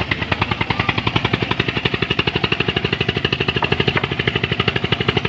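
An engine running close by with a fast, even chugging of about fifteen beats a second, holding steady throughout.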